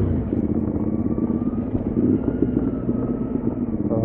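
Motorcycle engine running steadily while the bike is ridden, with a low rumble and road and wind noise.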